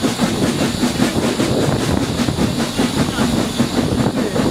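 Passenger carriage running along the line, heard from inside the carriage: wheels and running gear clattering and rattling steadily on the rails.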